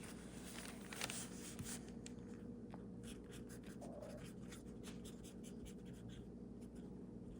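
Faint scratching of a pen writing on paper, in many short quick strokes.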